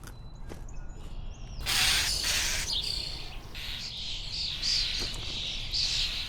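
Young starling chicks calling loudly for food in the nest: a harsh, raspy outburst about a second and a half in, then a steady run of shrill, repeated begging calls.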